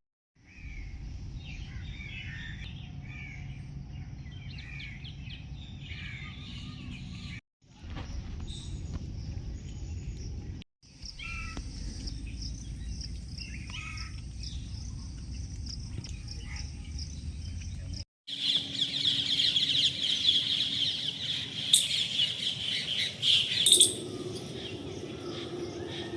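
Wild birds calling and chirping over a low rumble of wind noise, in several short clips cut together. About two-thirds of the way in the rumble stops and a dense, louder chorus of high chirping takes over, with a few sharp, loud calls near the end.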